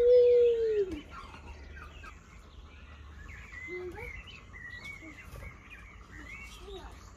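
A rooster's crow ends in a loud, drawn-out note that falls in pitch over the first second. Small birds chirp and sing after it for the rest of the time.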